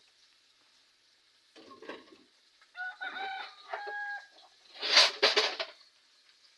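Domestic fowl calling in the background: a drawn-out two-part call, then a louder harsh call about five seconds in. Faint sizzle of chicken frying in oil underneath.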